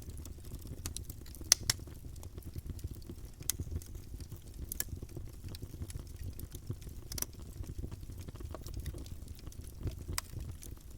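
Campfire burning: wood crackling with scattered sharp pops over a steady low rumble of the flames. The loudest pop comes about a second and a half in.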